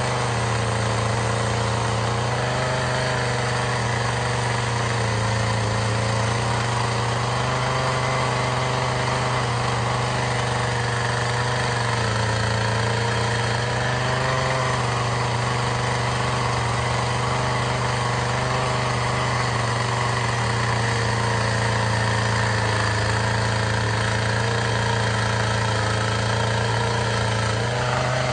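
Two-stroke chainsaw running steadily at moderate speed while carving feather lines into wood. Its pitch wavers slightly up and down as it cuts.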